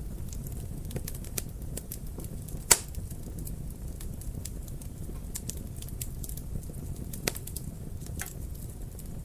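Wood fire crackling in a fireplace: a steady low rumble of flames with scattered sharp pops and snaps, the loudest nearly three seconds in and two more strong ones past seven and eight seconds.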